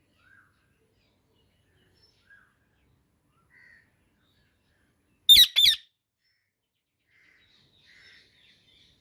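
Indian ringneck parakeet calling: a few faint short chirps, then two loud, high-pitched calls in quick succession about five seconds in, followed by faint chattering near the end.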